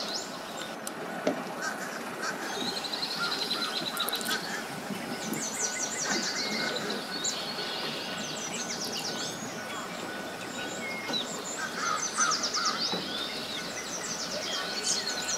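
Birds calling: several runs of rapid, high-pitched calls over a steady hiss of outdoor background noise.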